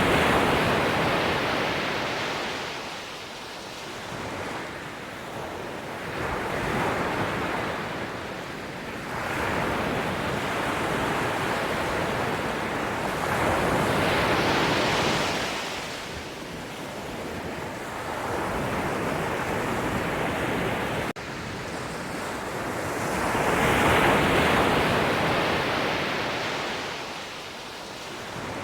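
Sea waves breaking and washing onto the shore, swelling and ebbing in slow surges every few seconds, with the biggest waves about halfway through and near the end.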